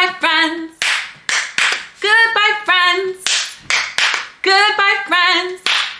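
A woman singing a short repeated phrase of a goodbye song, with a few hand claps between each sung phrase.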